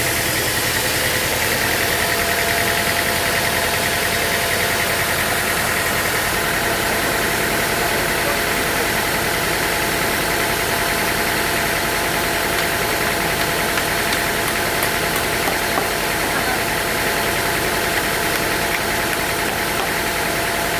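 Sawmill machinery engine running steadily at a constant speed.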